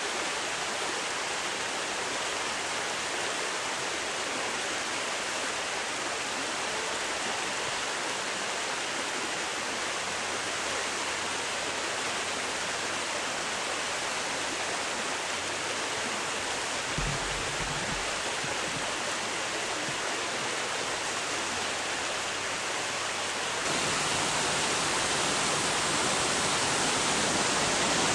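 Steady rushing of flowing river water, with a brief low bump about two-thirds of the way through; the rushing gets louder near the end.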